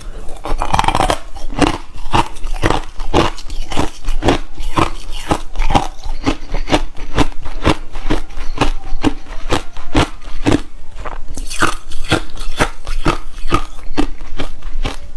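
Close-miked ice eating: refrozen crushed ice crunched between the teeth in a fast run of hard, crackling bites and chews, about two to three crunches a second.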